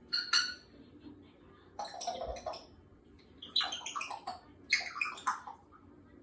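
African grey parrot making short chattering, speech-like sounds in four bursts, the longer ones about two and four seconds in.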